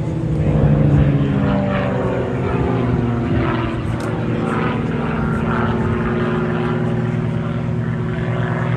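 Propeller aircraft engine droning, its pitch falling over the first two seconds and then holding steady.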